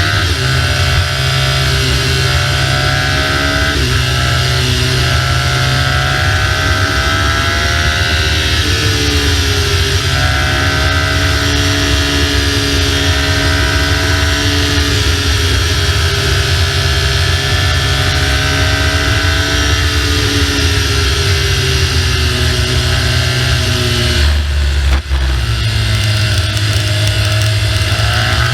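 BMW R1200GS flat-twin engine running under way, its pitch rising and falling with throttle and gear changes, over a constant rush of wind noise. The engine sound dips briefly about 25 seconds in.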